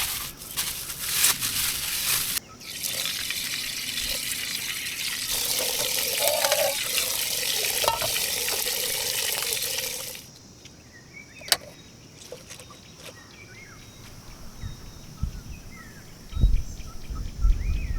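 Water running or pouring as a steady hiss for about ten seconds, then stopping abruptly. After it, small birds chirp faintly.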